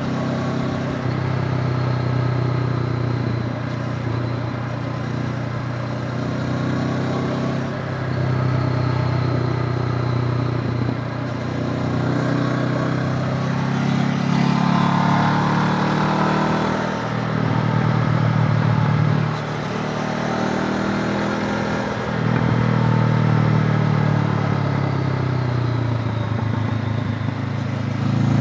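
Honda CB500X's parallel-twin engine running as the motorcycle is ridden, the engine note rising and falling several times with throttle and gear changes.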